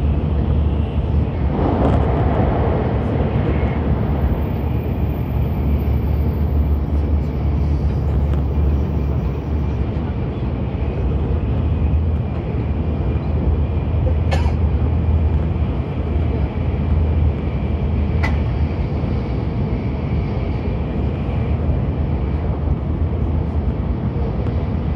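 Cabin noise of a Nozomi Shinkansen running at speed: a steady low rumble under a rushing noise, with a brief louder rush about two seconds in and two sharp clicks later.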